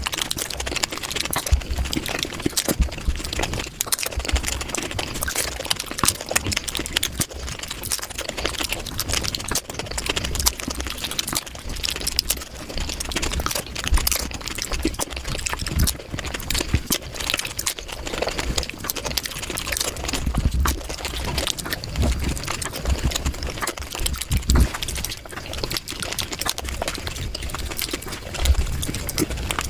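Close-miked eating sounds of dahi puri, played back at about five times normal speed: crunching of the crisp puri shells and wet, squelching chewing of the yogurt filling merge into a dense, rapid crackle of clicks.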